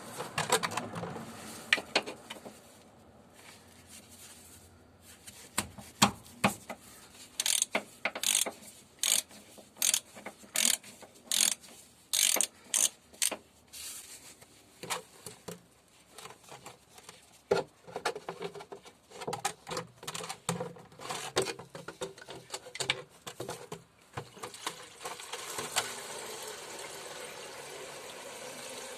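Ratchet wrench clicking in quick runs as the engine oil drain plug, a 17 mm bolt, is loosened. Near the end, a steady rush of used engine oil draining into a cut-down plastic bottle.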